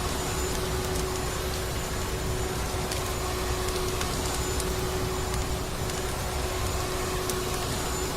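Vacuum cleaner running steadily: an even rushing of air over a constant motor hum, with a few faint crackling ticks scattered through it.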